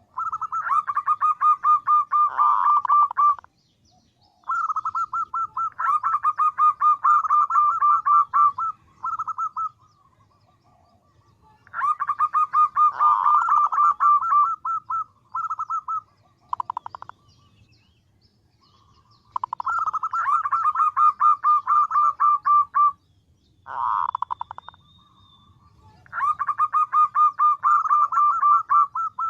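Female zebra dove calling to attract males: five bouts of fast, stuttering notes a few seconds each, with shorter bursts in between.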